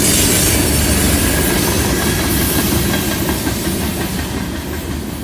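Freight train cars, loaded centerbeam lumber flatcars, rolling past: a steady rumble of steel wheels on the rail with hiss above it. It grows fainter over the last couple of seconds as the cars move away.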